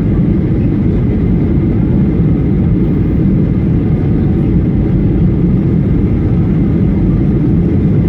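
Boeing 737 cabin noise: a steady, loud rumble of engines and airflow inside the cabin, with a faint steady whine above it.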